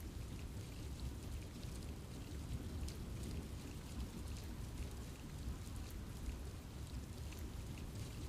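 Steady rain falling in a forest, with a low rumbling wash and many scattered drop ticks on leaves and other surfaces.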